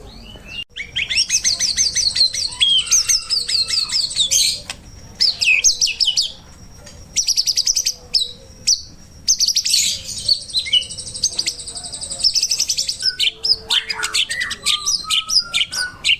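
White-rumped shama (murai batu) in full song, delivering long fast runs of rapidly repeated high notes broken by shorter phrases and brief pauses.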